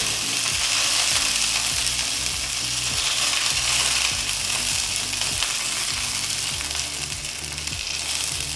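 Curry leaves and dried red chillies sizzling in hot oil in a pan: a steady, dense frying hiss.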